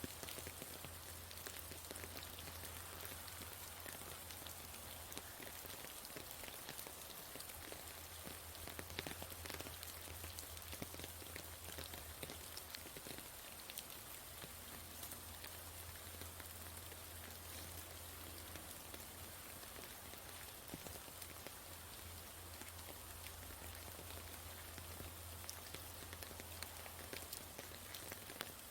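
Steady rain falling, a continuous patter with many individual drops ticking, over a steady low hum.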